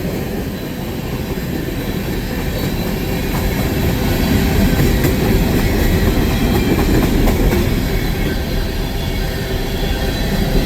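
Railroad cars rolling past on the track: a loud, steady rumble of steel wheels on rail, with faint high steady tones and occasional light clicks.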